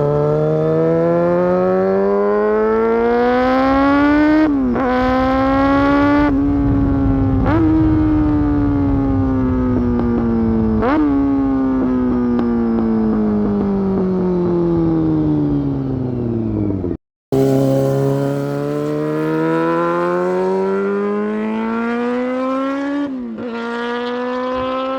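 Honda CBR600F4 inline-four with an aftermarket Delkevic exhaust, loud and revving up hard through the gears. The pitch climbs, then drops sharply at each upshift, then winds down in a long falling note. After a brief cut the engine climbs again and shifts once more near the end.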